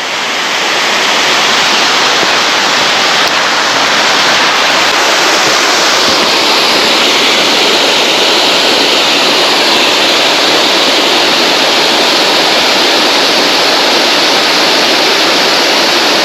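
Waterfall rushing: a loud, steady roar of falling water that swells over the first second and then holds.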